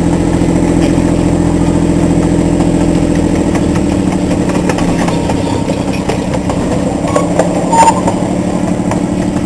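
Miniature train's engine running steadily as the train rolls along, with a short louder, higher-pitched sound about eight seconds in.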